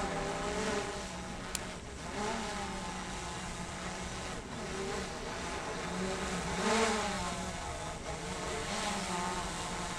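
A motor running steadily, its pitch wavering gently up and down.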